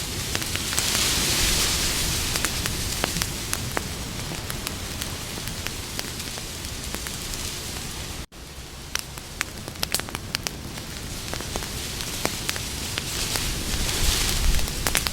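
Campfire burning, a steady hiss with frequent sharp crackles and pops from the burning wood. The sound cuts out for an instant a little past the middle.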